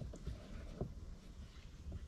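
Kayak moving on a quiet stream: faint paddle splashes and a few soft knocks of the paddle against the hull.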